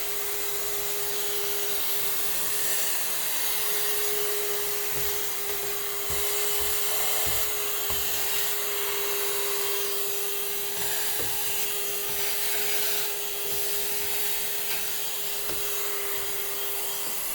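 A steady motor-like whir with one constant mid-pitched tone runs throughout. Over it are a few faint knocks and rubs of wooden piano parts being handled.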